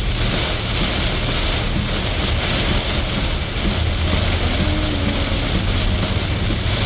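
Heavy rain and tyre noise of a car driving on a waterlogged highway, heard from inside the cabin: a steady hiss over a low rumble.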